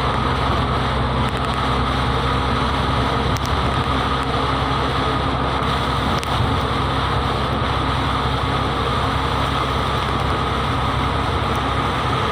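Steady running noise of a vehicle: a low, even engine hum under a constant rushing noise, with no change in pace.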